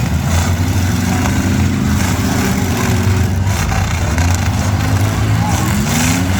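Demolition-derby V8 engines running hard and revving, the engine pitch rising and falling; one rev climbs near the end.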